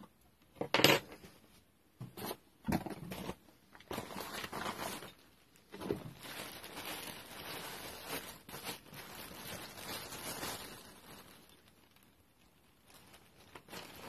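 Hands handling parts on a workbench: two sharp knocks in the first few seconds, then several seconds of irregular rustling and crinkling, like packaging being handled.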